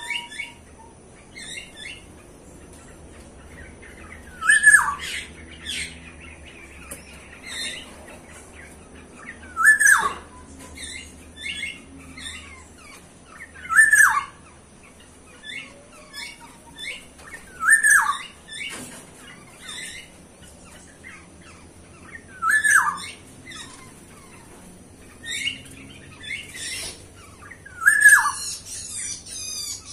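Birds calling: one bird repeats a loud, sharp call about every four to five seconds, each call a short note that drops in pitch, led in by a few quicker, higher chirps. Softer chirps from other birds fall between, and a rapid high twittering starts near the end.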